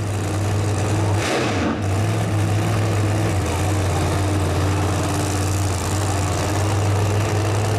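Race car engine idling steadily with a low, even rumble. About a second in, the pitch dips briefly under a short hiss, then settles back to a steady idle.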